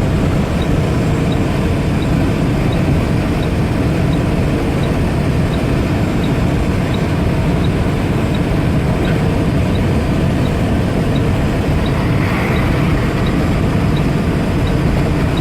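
Western Star 9400XE semi truck running steadily down the road, heard from inside the cab: the engine is derated by a DEF fault and holding the truck at 55 mph. A faint high tick repeats evenly about every three-quarters of a second.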